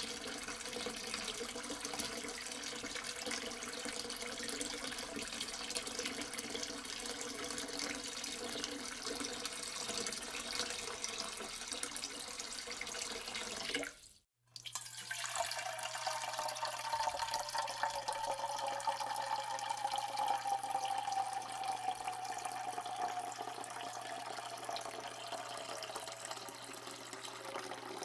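Water running from a tap into a sink, as two separate recordings joined by a cut about halfway through. In the second, a tone within the running water slowly falls in pitch over a low steady hum.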